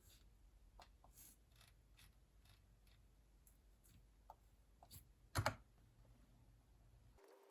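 Quiet desk handling: faint, scattered clicks and taps of small objects being picked up and set down, with one louder knock about five and a half seconds in.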